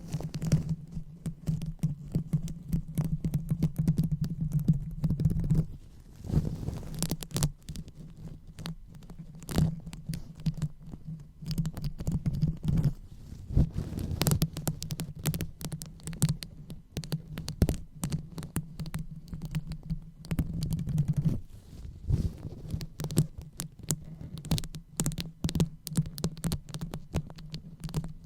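ASMR 'brain massage' sounds: fingers rubbing and tapping right on the microphone, a dense run of soft taps and scratchy rubs over a low handling rumble.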